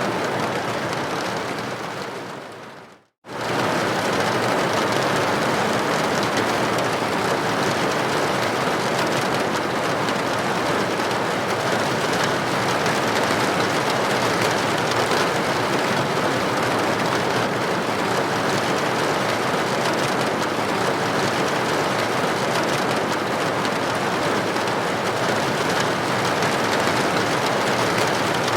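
Steady heavy rain on a building window, an even, dense hiss. About two seconds in it fades down to silence, then comes straight back at full level a moment later and runs on steadily.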